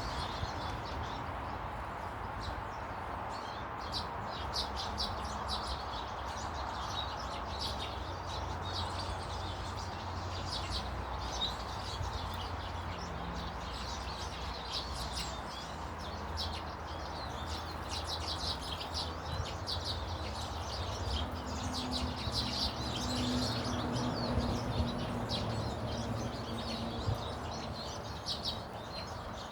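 Small garden birds chirping: many short, high chirps in quick, irregular runs, over a steady low background noise.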